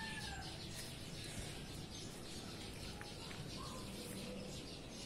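Birds calling: a long call trailing off about half a second in, then a few short, faint calls, over steady background noise.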